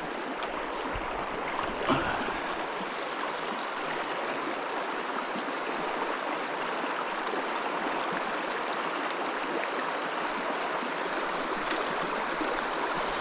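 Fast-moving water of a small mountain trout stream rushing and gurgling steadily over rocks. A brief louder knock or splash comes about two seconds in.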